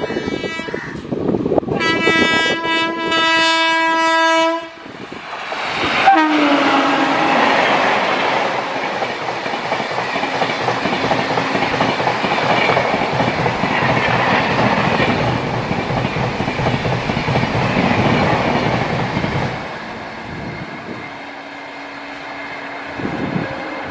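Indian Railways train horn: one blast ends just after the start, then a second blast of about three seconds. The train then runs through the station, a loud steady rush of wheels on rails that follows a sharp crack about six seconds in and falls away about four seconds before the end.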